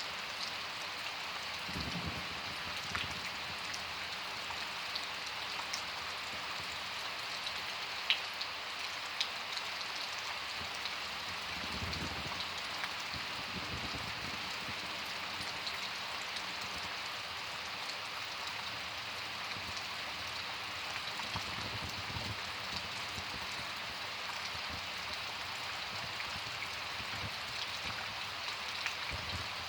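Summer thunderstorm rain falling steadily, a constant hiss with scattered sharper drop ticks.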